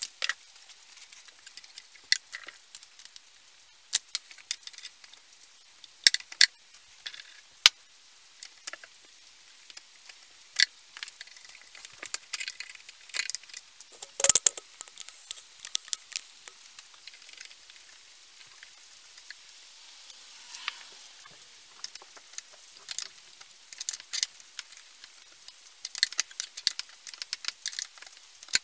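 Scattered sharp clicks and light scraping of small hard parts being handled, with one louder knock about fourteen seconds in and quicker clicking near the end.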